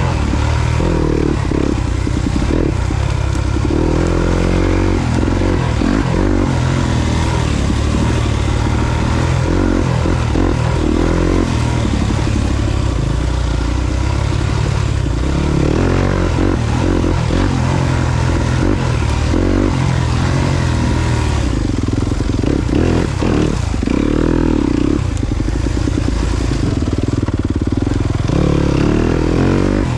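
Yamaha YZ250FX's single-cylinder four-stroke engine being ridden on a trail, its pitch rising and falling over and over as the throttle is opened and closed.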